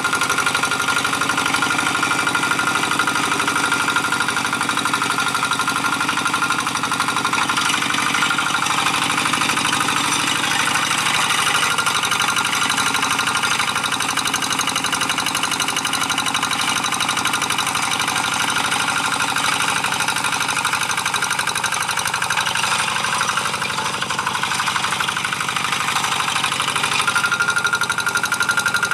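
G1000 hand tractor's single-cylinder diesel engine running steadily under load, with a rapid, even knocking beat, as it pulls a moldboard plow through dry paddy soil.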